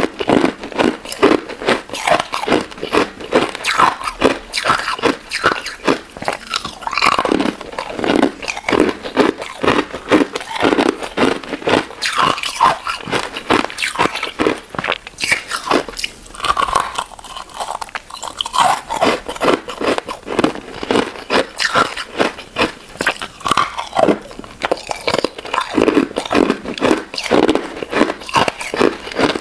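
Close-miked chewing of a crunchy crystal ice dessert with citrus jelly: rapid, steady crunching bites, with a brief lull a little past halfway.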